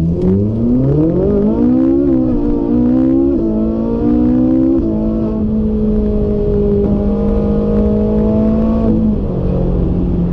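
Vehicle engine sound revving up, its pitch climbing in steps like gear changes, then holding steady and dropping slightly near the end.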